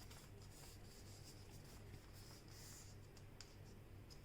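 Faint rustling and rubbing of a sheet of paper being folded and creased by hand, with a few soft clicks, over a low steady hum.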